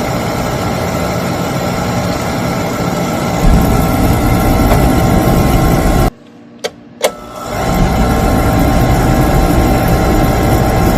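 Oil burner on an oil-fired hot-air furnace running with a loud, steady mechanical hum. A deeper rumble joins it about a third of the way in. Just past the middle it cuts out suddenly, two short clicks follow, and then it builds back up and runs steadily again.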